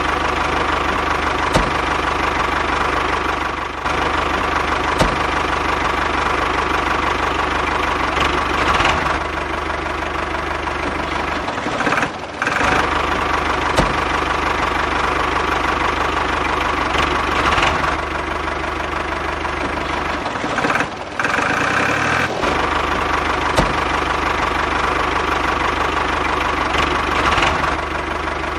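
Engine idling steadily with a knocking beat, breaking off briefly twice, around twelve and twenty-one seconds in.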